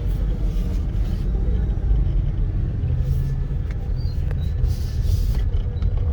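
Steady low rumble of a vehicle in motion, heard from on board, with brief hissing swells about half a second in and again near the end.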